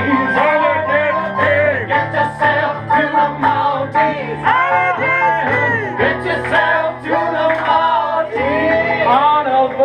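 Singing with instrumental accompaniment: an improvised song performed live, the voice gliding through sustained notes over steady low chords.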